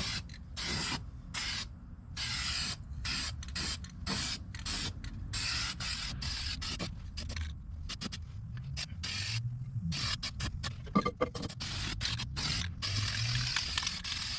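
Aerosol spray paint can hissing in many short bursts, turning into a longer steadier spray near the end.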